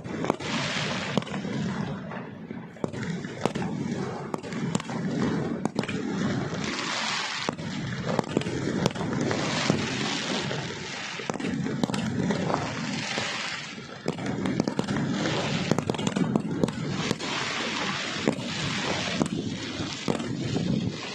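Fireworks display: a steady run of sharp bangs and pops, with hissing, crackling bursts every few seconds, over a continuous low din.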